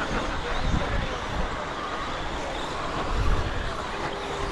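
Radio-controlled stadium trucks racing around the track, their motors whining and changing pitch as they accelerate and slow, with a low uneven rumble underneath.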